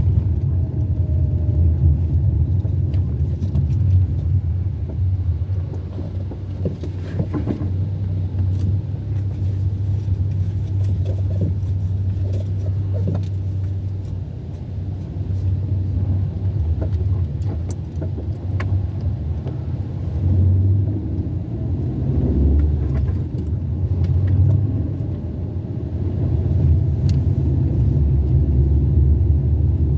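A car being driven, a steady low rumble of engine and road noise.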